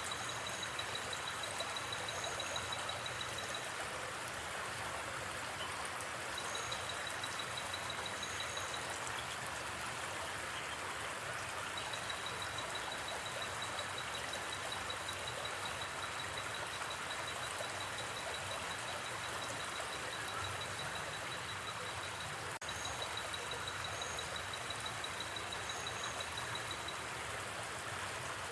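Steady rush of a gently flowing river. Over it, a fast pulsing high trill comes and goes in long stretches, with short paired high chirps every couple of seconds, and there is one sharp click late on.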